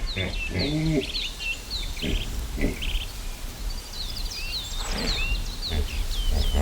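Birds chirping: many short, quick high chirps, with a lower-pitched animal call about a second in and again around five seconds in.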